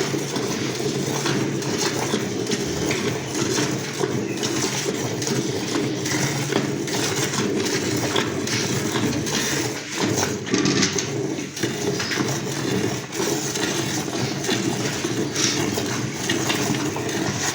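Milk jets squirting into a metal pail as a cow is milked by hand: a steady run of short squirts.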